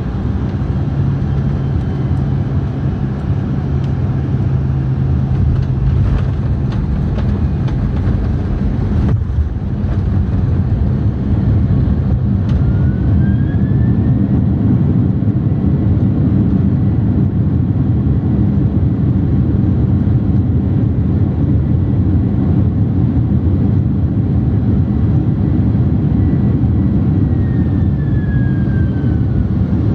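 Jet airliner cabin noise during landing. About nine seconds in comes a jolt of touchdown, and the steady rumble grows louder. Shortly after, a jet engine whine rises as reverse thrust spools up, and it falls away again near the end as the engines spool down.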